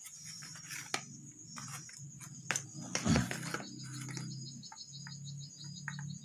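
Clicks and clinks of small parts being handled, over a low steady hum that comes on at the start. A rapid high cricket chirping runs behind.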